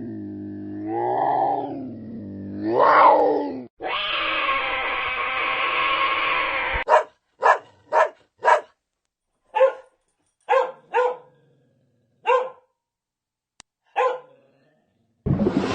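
A cat's drawn-out meows, then a long steady cry of about three seconds, then a dog barking about nine times in short separate barks, irregularly spaced.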